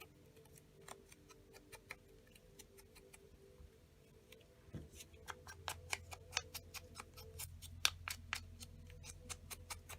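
Light, irregular clicks and taps of hands working with paper and craft tools, sparse at first and coming much faster from about halfway through, over a faint low hum.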